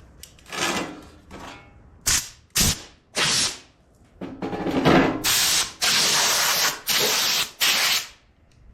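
Cleaning a cast-iron tractor front weight: a series of about nine rough, hissing bursts, each under a second long, starting and stopping sharply, with the longest and loudest in the second half.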